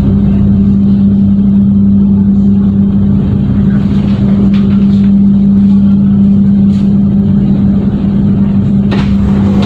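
Steady low hum and rumble inside a passenger train carriage as the train rolls slowly into a station, with a couple of faint clicks near the end.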